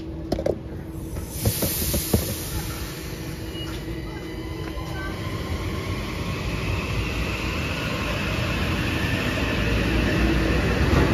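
Kawasaki M8 electric multiple-unit train pulling out past the platform: a few knocks in the first two seconds, then the rumble and hiss of wheels on rail growing steadily louder as it picks up speed.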